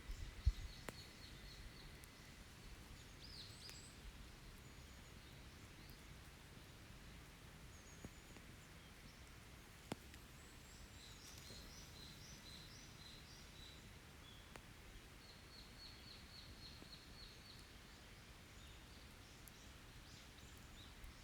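Faint forest birdsong: several runs of quick, evenly repeated high notes from small birds, over a low steady rumble. Two single sharp pops, one about half a second in and one near the middle, fit a wood campfire crackling.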